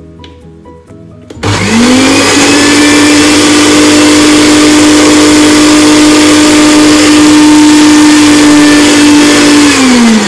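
Philips countertop blender coarse-chopping shallots and garlic: the motor starts about a second and a half in, climbs quickly to a steady loud whine with the whirring of the chopped onion in the jar, and winds down with a falling pitch near the end. Soft background music before the motor starts.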